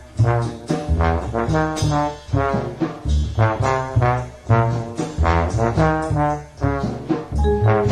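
Small-group jazz recording: trumpet and trombone playing over a walking line of low double-bass notes.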